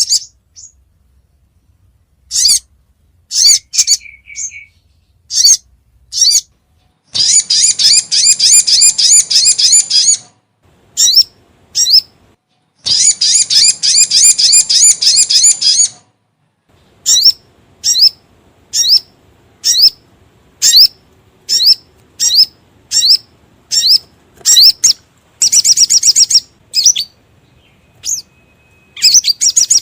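Sogon (sogok ontong) bird calling: sharp, high single chip notes repeated at uneven intervals, broken by three long, rapid trills.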